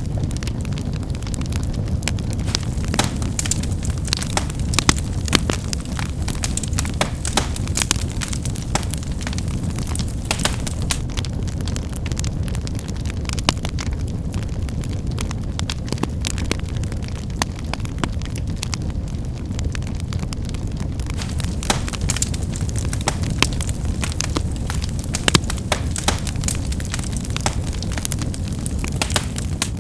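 Wood fire burning: a steady low roar of the flames under frequent sharp crackles and pops of firewood snapping.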